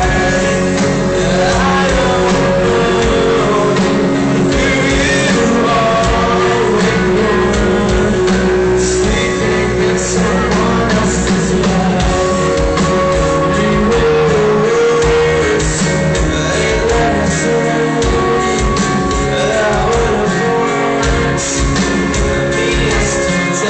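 Rock song with a singing voice over a full band with guitars, loud and continuous.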